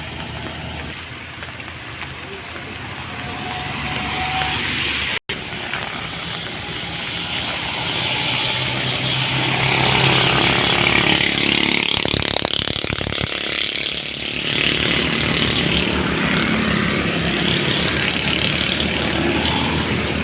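Loaded truck's engine running as it passes on a wet road, with tyre hiss, getting louder about eight seconds in as it comes close.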